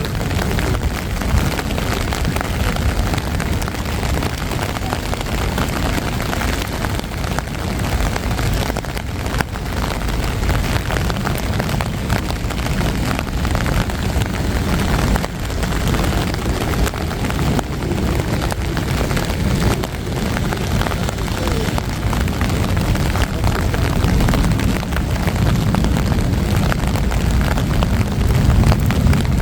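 Steady city traffic noise: a continuous rumble and hiss of passing vehicles, swelling near the end.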